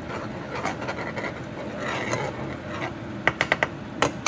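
Teriyaki stir-fry sizzling in a pan on high heat, with a quick run of sharp metal clicks of a fork against the pan near the end.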